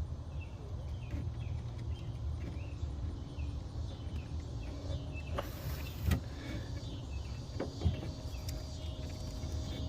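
Steady low outdoor rumble with faint chirping, and two light knocks about six and eight seconds in as hose and clamp parts are handled.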